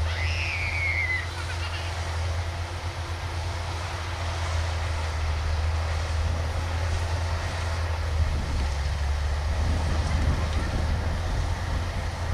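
Kubota DC-105X combine harvester's diesel engine running steadily with a low drone under the broad noise of the machine, while harvesting lodged rice. A brief high whistle falls in pitch at the very start.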